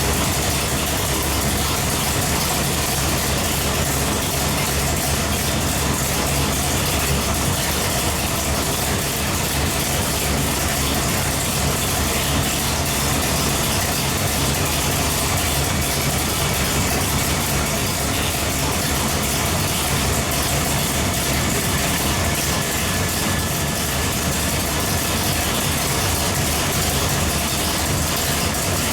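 632 cubic-inch big-block V8 marine engine running steadily on a dynamometer, holding one speed with no revving.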